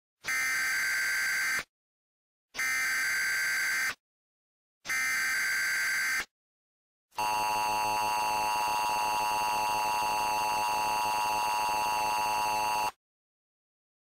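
Emergency Alert System SAME header: three short bursts of screeching digital data tones, each a little over a second long. They are followed by the steady, harsh two-tone EAS attention signal for about six seconds, which announces that an alert message follows.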